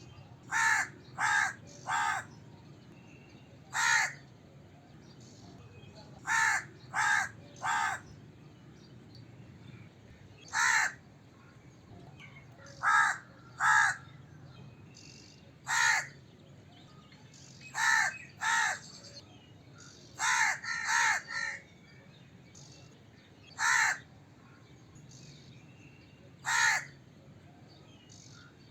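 A crow cawing: short harsh caws, some single and some in quick runs of two or three, every few seconds.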